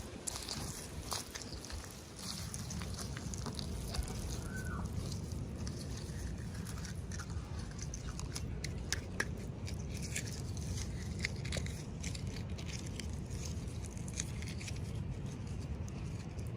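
Close-up handling of toy packaging and small plastic pieces: scattered small clicks, taps and crinkles, with a steady low rumble underneath.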